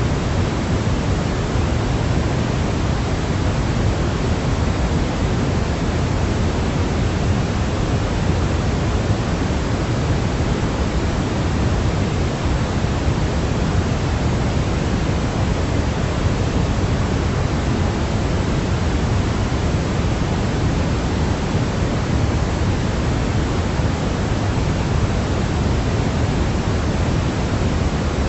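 Steady synthetic noise for sleep, a constant even hiss weighted toward the low end like pink noise, with no changes or events.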